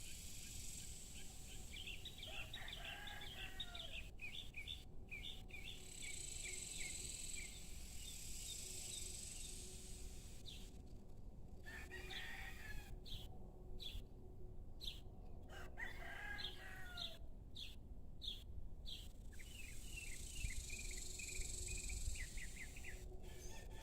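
A rooster crowing faintly three times, amid repeated quick chirping of small birds and a high hiss that swells and fades.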